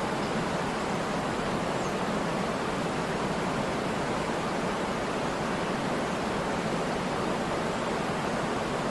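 Waterfall rushing: a steady, even hiss of falling water that holds without change.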